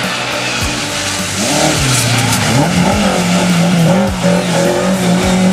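Lada 2107 rally car's engine revving hard, its pitch rising and falling and then held high in the second half, with music mixed in.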